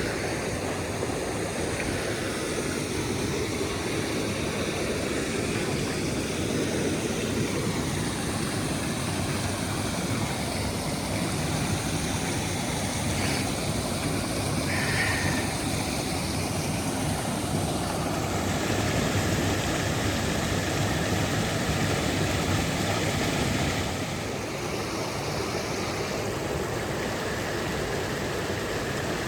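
Creek water rushing steadily, an even loud hiss of running water.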